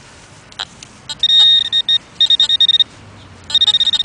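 Garrett Pro-Pointer metal-detector pinpointer beeping, a high electronic tone in three bursts: one steady, then two that pulse rapidly. It signals a metal target in the hole, here a coin.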